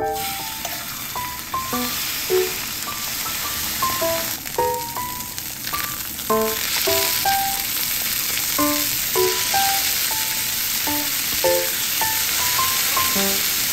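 Food sizzling steadily as it fries in a hot pan, starting and stopping abruptly, with light background music of single picked notes over it.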